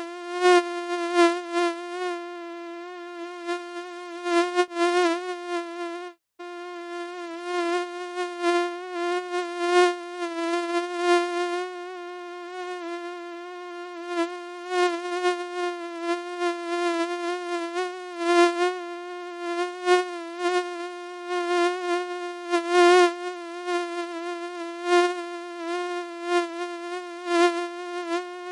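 Mosquito wing whine: a steady, slightly wavering high buzz that swells and fades in loudness, cutting out for an instant about six seconds in.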